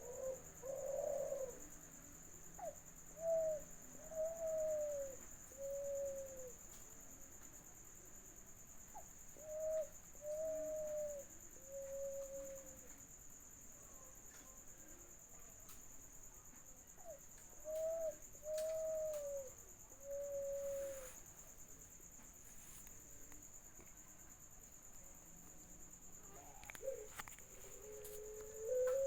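A dove cooing in three repeated phrases, each a short opening note followed by three drawn-out, falling coos, with a lower, longer coo near the end. These are contest-dove coos used as a lure call. A steady high-pitched whine runs underneath.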